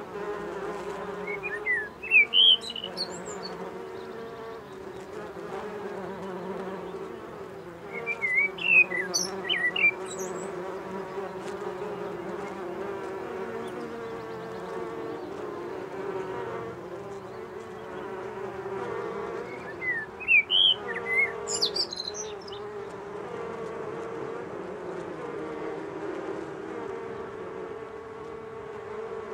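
Bees buzzing in a steady hum, with a songbird singing three short, quick phrases of chirps about two, nine and twenty-one seconds in.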